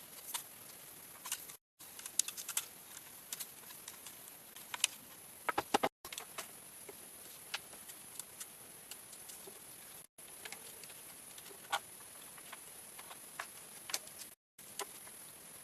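Scattered light taps and clicks, irregular and close together at times, over a steady high-pitched hiss.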